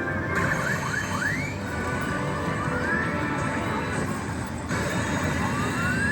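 Pachislot machine's music and sound effects, with several rising whistle-like sweeps, a quick cluster about half a second in and slower ones later, over a steady background din.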